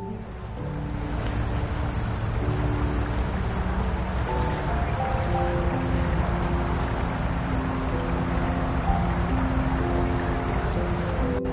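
An insect trilling steadily at high pitch, with an even pulsing in it, over soft background music; it cuts in at the start and stops abruptly just before the end.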